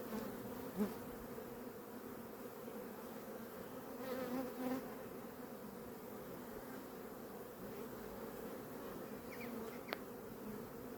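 Honeybee colony buzzing steadily from an open hive during a frame inspection, with a few light knocks and a sharp click near the end.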